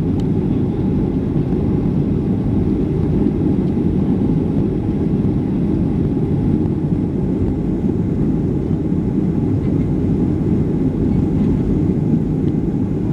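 Boeing 757-200 cabin noise: a steady low rumble of the jet engines and airflow, holding an even level throughout.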